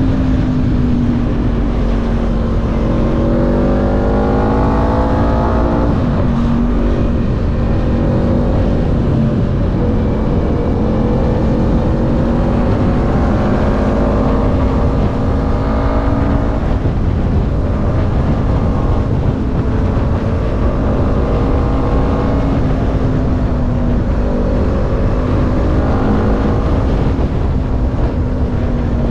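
An engine on the move, its pitch climbing and dropping several times with throttle and gear changes, over a heavy low wind rumble on the microphone.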